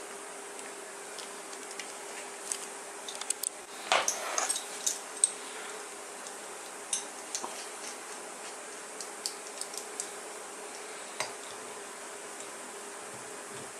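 Metal tools and small parts clinking and tapping on a hard surface while an electric skateboard hub motor is worked on, with a busier run of knocks about four seconds in. A steady faint hum runs underneath.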